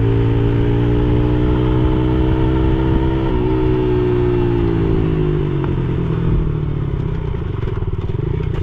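Yamaha TT-R110E pit bike's small single-cylinder four-stroke engine pulling under throttle during a ride. It shifts up once about three seconds in, then the engine note falls away as the throttle comes off around the middle and settles lower toward the end.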